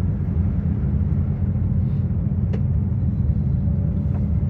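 Steady low rumble inside the Sandia Peak Tramway's aerial tram cabin as it rides along its haul cable, with one faint click about two and a half seconds in.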